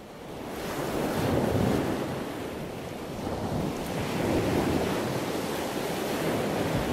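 Ocean waves washing, a steady rushing noise that fades in at the start and swells about a second and a half in and again around four and a half seconds.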